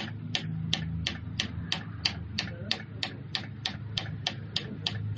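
Sharp mechanical ticking, evenly about three times a second, over a low steady hum.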